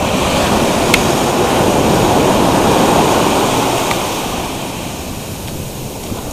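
Sea surf rushing on the beach, swelling over the first three seconds and then fading away.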